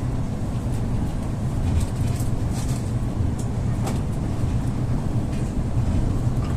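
Steady low rumble inside a moving EP2D electric multiple unit carriage, with a few short clicks and rattles.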